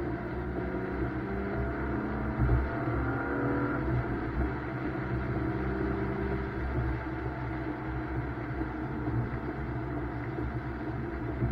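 BMW M2's turbocharged straight-six heard from inside the car under hard driving, its pitch rising over the first few seconds and then holding steady. Underneath is a constant rumble and hiss of road and tyre noise on a wet track.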